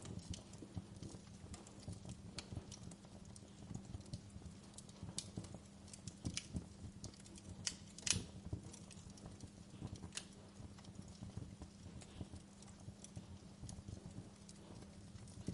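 Wood fire in a fireplace crackling, with irregular sharp pops and snaps over a soft low rumble of flames; one louder pop about eight seconds in.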